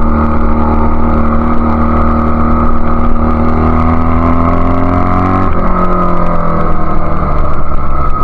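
Single-cylinder engine of a 1999 Honda Rebel CA125 running through its BSM/Highway Hawk exhaust, its pitch climbing steadily under throttle and then dropping sharply about five and a half seconds in before running steady.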